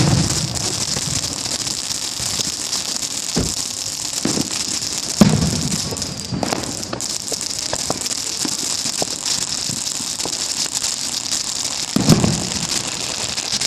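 Fireworks going off: a dense, continuous crackling with many sharp pops, broken by several low booms, the loudest about five seconds in and again near the end.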